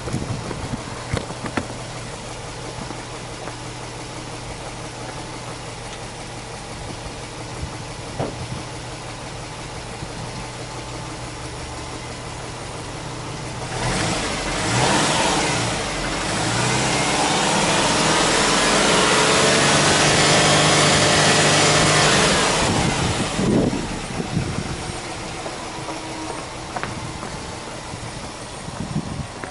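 Subaru Impreza WRX STi's turbocharged flat-four boxer engine idling steadily, then free-revved in place. A short throttle blip comes about halfway through. The revs then climb and are held high for about six seconds before falling back to idle with one more quick blip.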